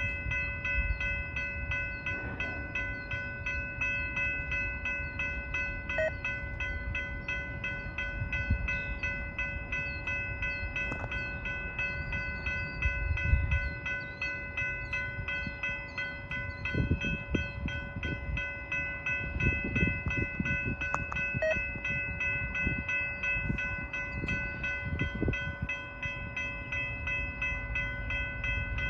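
Freight train of tank cars rolling steadily past, a low rumble with heavier wheel thumps now and then. Over it a grade-crossing bell rings on without pause in a fast, even pattern.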